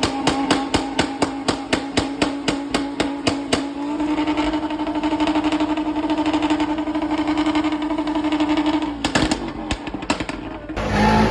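A car engine running at high revs with a hard rhythmic stutter about five times a second for the first few seconds, then held steady and louder. It breaks into a few sharp cracks near the end.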